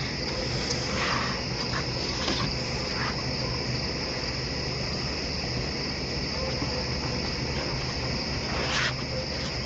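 Night insect chorus, crickets chirring in a steady high-pitched band, with a few faint short sounds over it.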